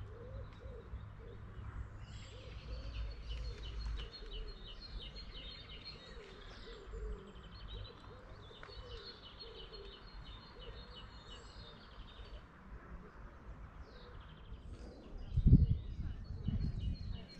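Small birds singing in quick, repeated trilled phrases. A few loud low thumps come near the end.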